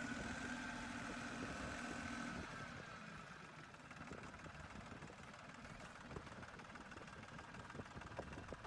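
Six-wheeled tractor's engine running, with a steady whine that drops away about two and a half seconds in, leaving a quieter rumble.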